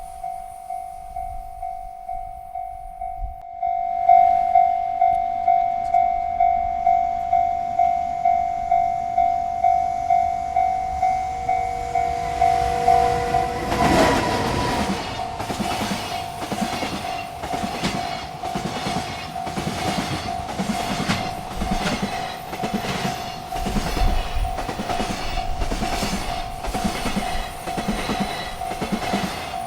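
Railroad crossing bell ringing about twice a second. About 13 seconds in, a freight train arrives with a short horn blast. Its wagons then roll past with steady clickety-clack over the rail joints while the bell keeps ringing.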